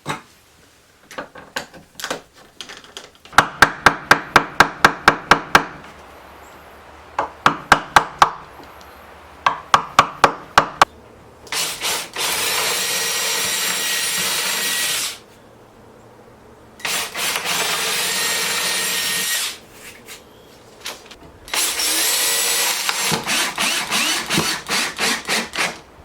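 Power drill running in three steady bursts of a few seconds each, the last breaking into quick pulses near the end, while a new doorknob and deadbolt are fitted to a wooden door. Before the drill starts, three quick runs of sharp, evenly spaced clicks, about four a second.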